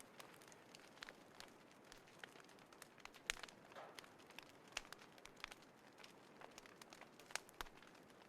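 Small wood fire in a folding fire pit, crackling quietly with irregular sharp pops, two louder pops about three and seven seconds in.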